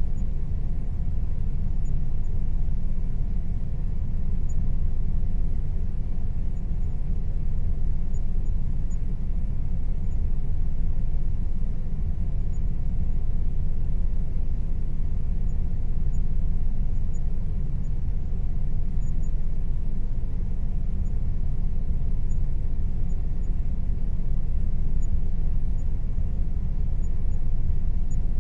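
Air conditioner running steadily: an even low rumble with a faint constant hum above it, unchanging throughout.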